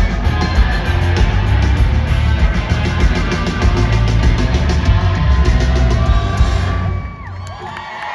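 Live country-rock band with drums and electric guitars playing the loud final bars of a song, cutting off abruptly about seven seconds in. The crowd starts cheering as the music stops.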